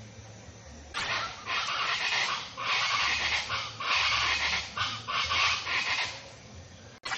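Birds chirping and chattering together in dense bursts, louder from about a second in, easing off near the end, with a brief dropout just before the end.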